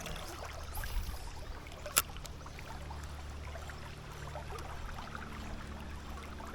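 River water running steadily, with one sharp click about two seconds in.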